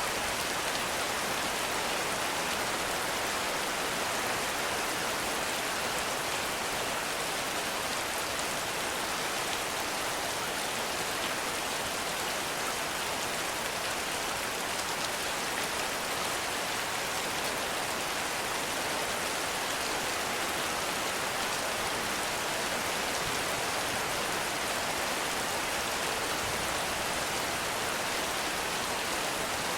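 Heavy rain falling steadily in a forest, an even hiss of drops on leaves and ground.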